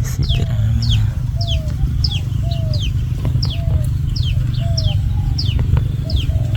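Birds calling over and over, a short high falling chirp and a lower falling note repeating about every half second, over a steady low rumble.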